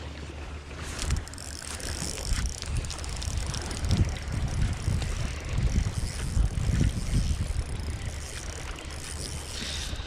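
Wind buffeting the microphone in uneven low rumbling gusts, strongest in the middle, over a faint hiss.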